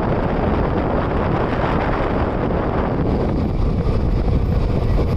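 Wind buffeting the microphone over the steady rumble of a moving passenger train; the higher hiss eases about three seconds in.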